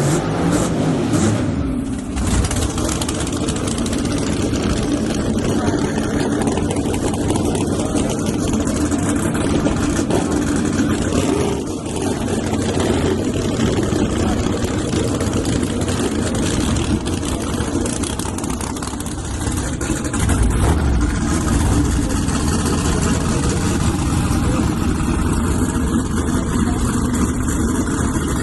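Loud, continuous engine noise from drag-racing S10 pickup trucks, with a brief dip about two seconds in.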